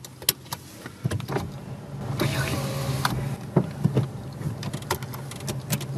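Car engine idling, heard from inside the cabin as a steady low hum, with scattered clicks and knocks of movement in the car.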